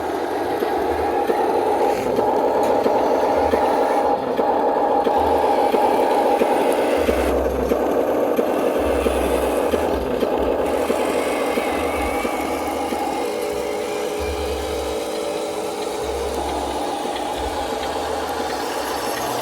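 Radio-controlled model construction vehicles running, with steady motor and gearbox noise and rattling.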